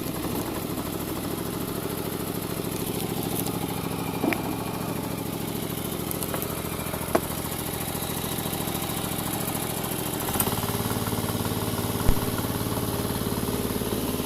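Motor vehicle engine running steadily on the road, its note shifting slightly about ten seconds in, with a few brief knocks along the way.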